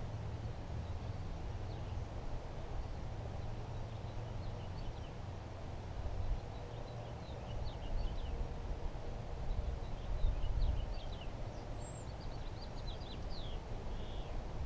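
Small birds chirping in quick short notes, starting a few seconds in and thickening near the end, over a steady low rumble.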